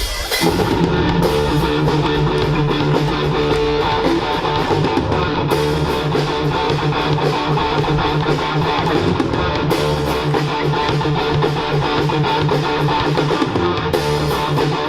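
A live band playing, led by a strummed guitar with bass underneath, in a steady rhythm.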